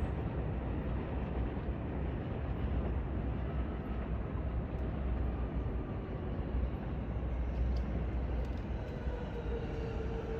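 Steady low rumble of an electric train approaching in the distance, with a faint motor whine coming in near the end.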